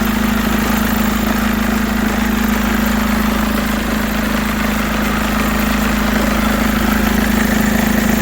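Mercedes W204 engine idling steadily with a strong, even hum. The engine runs rough, which the mechanic thinks may come from the belt tensioner pulley or the alternator's overrunning freewheel pulley.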